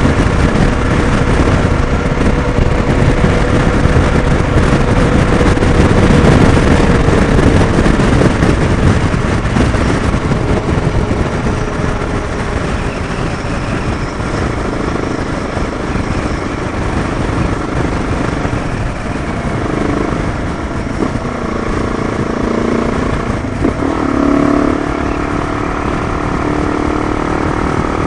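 Motorcycle engine running at road speed, with heavy wind rush. About two-thirds of the way through, the engine note changes and shifts as the throttle is worked.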